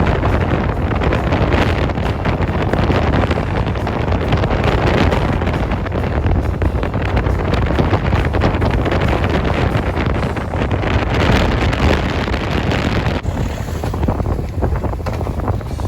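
Wind rushing and buffeting over the microphone of a moving motorcycle, a loud, steady rush with the ride's low rumble underneath.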